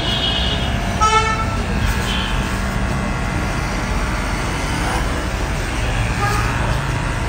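Road traffic noise with a steady rumble of engines; a vehicle horn honks briefly about a second in.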